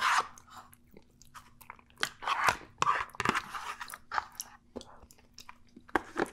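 Close-miked chewing of soft baby-food pasta in meat sauce, coming in short wet bursts, with a metal fork scraping and clicking against a plastic tray.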